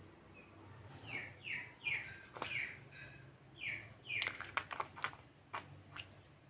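A small bird chirping repeatedly, short falling chirps in little runs. About four to five seconds in there is a quick cluster of sharp clicks and taps as a small plastic jar and its lid are handled.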